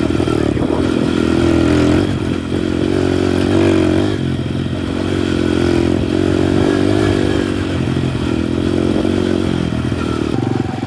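Minibike engine running while riding, its pitch rising and falling a little with the throttle.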